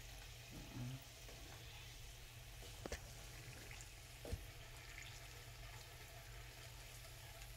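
Bananas frying in a pan of oil, a faint steady sizzle, with two faint clicks about three and four seconds in.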